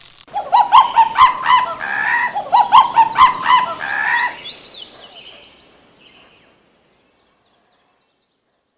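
A rapid run of loud, bird-like calls, each rising and falling in pitch, for about four seconds, then trailing off and fading out by about six seconds in.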